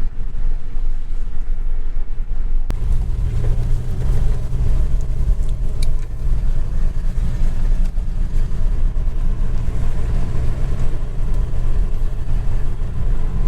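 1968 Rover P5b's 3.5-litre V8 running with tyre and road noise while the car is driven, a steady low rumble. It gets louder suddenly about three seconds in, with a click.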